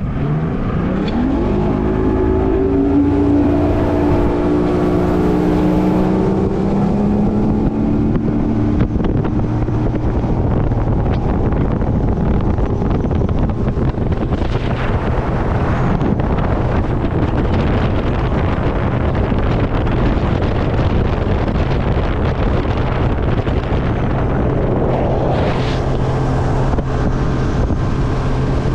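Boat's 150 hp Yamaha outboard motor accelerating: its pitch climbs over the first few seconds, then it runs at speed under a steady rush of wind on the microphone.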